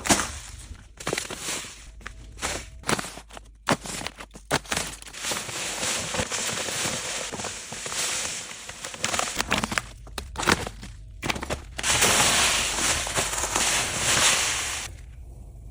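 Cassava cat litter granules rustling and pouring: a gritty hiss full of crackling clicks, loudest near the end and then cutting off suddenly.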